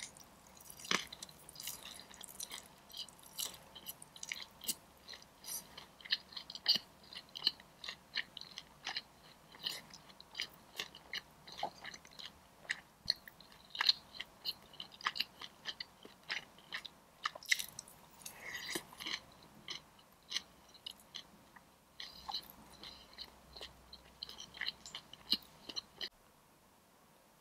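Close-miked chewing and biting of crispy Korean fried chicken: a long run of sharp, wet crunches that stops about a second before the end.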